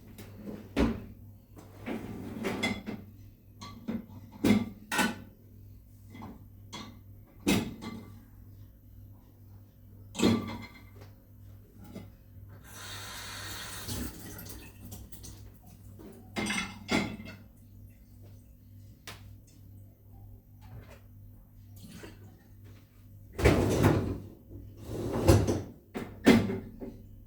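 Household cleaning clatter: scattered knocks and clunks of things being handled, opened, shut and set down, with a short hiss about midway and a cluster of louder knocks near the end.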